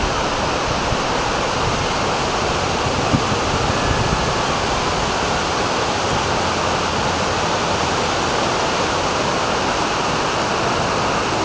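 Swollen floodwater rushing steadily, an even, unbroken wash of noise.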